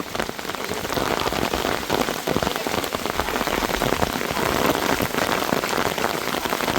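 Heavy rain pouring down, countless drops pattering on a surface close by in a steady dense hiss.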